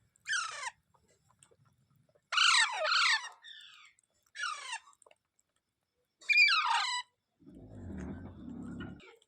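Ringneck parrot (rose-ringed parakeet) giving about six short screeching calls, each sliding down in pitch, some in quick pairs. Near the end a low muffled rumble lasts about a second and a half.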